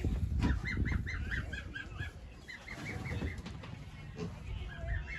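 Waterfowl at a petting zoo honking in three quick runs of short repeated notes, over a low rumble.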